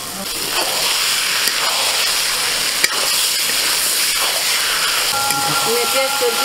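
Goat liver mixture with onions frying in a metal kadai while a spatula stirs it: a steady sizzling hiss with the scrape of the spatula against the pan.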